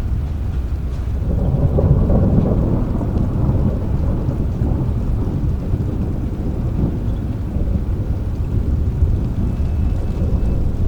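Thunder rumbling over steady rain, the rumble swelling about a second and a half in and then slowly dying away.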